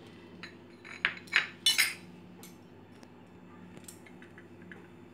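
A spoon clinking against a bowl a few times, in a quick cluster about a second in and once more near the end, as ingredients are spooned into the bowl. A faint steady hum runs underneath.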